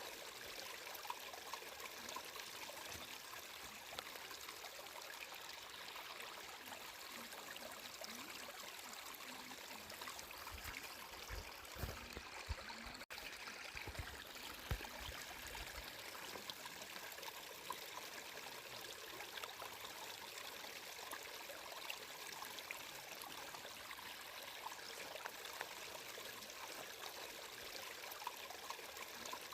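Water flowing and trickling steadily, like a small stream, with a few low thumps in the middle and a momentary break in the sound about halfway through.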